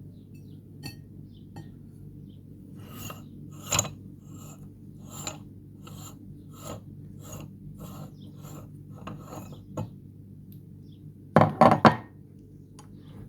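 Meat grinder crushing chocolate biscuits: a series of short, gritty rasping strokes about one or two a second over a steady low hum, then a louder quick clatter near the end.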